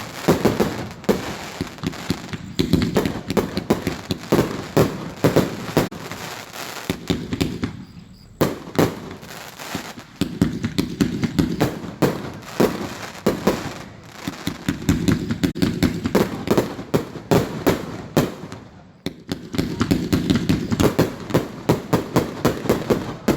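Fireworks going off in rapid series of sharp bangs and cracks, in several long runs with brief lulls about 8 and 19 seconds in.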